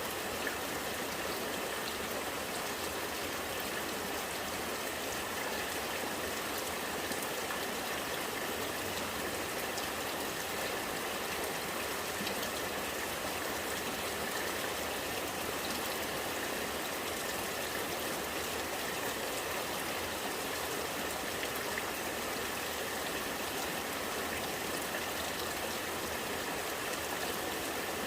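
Rainwater running and gurgling in a steady, unbroken flow.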